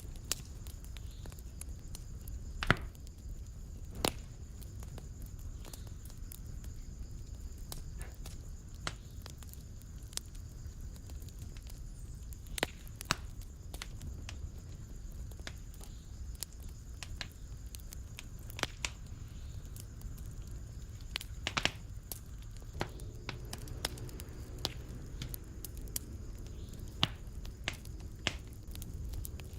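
Fireplace fire crackling: a low steady rumble of flames with scattered sharp pops and snaps. The loudest pops come about three and four seconds in.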